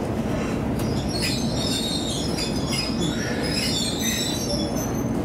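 Izuhakone Railway Sunzu Line electric train rolling along, heard from on board: a steady rumble of wheels on rail, with a high-pitched, wavering metallic squeal from the wheels setting in about a second in.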